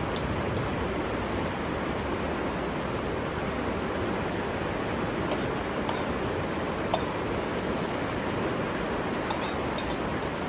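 Steady rushing of a river, with a few faint light clicks.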